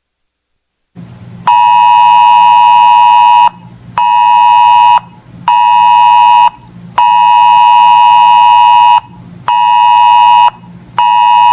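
Weather radio alert tone: a loud, buzzy beep near 1 kHz sounding in a long-short-short pattern (one two-second tone, then two one-second beeps), played twice. It signals an incoming National Weather Service alert, with a faint low hum underneath.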